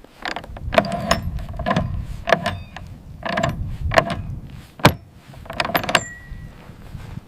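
Sheep hooves clattering on wooden steps and planks: irregular clusters of hard knocks with a short ringing tone after each.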